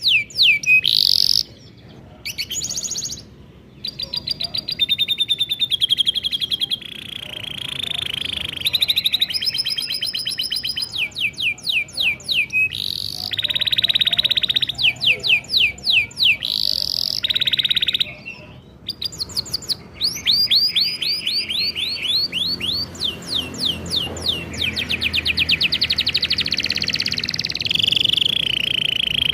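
Domestic canary singing a long song of rapid rolling trills and fast repeated chirps, in phrases that change every second or two with short breaks.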